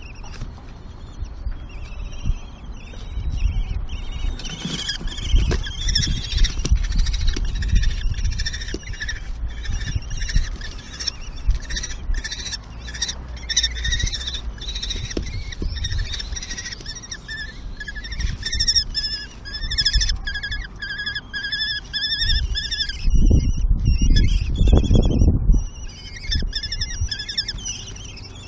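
Common kestrel chicks giving shrill, repeated begging calls while being fed, growing denser in the second half. Low rumbling thumps run underneath and are loudest a few seconds before the end.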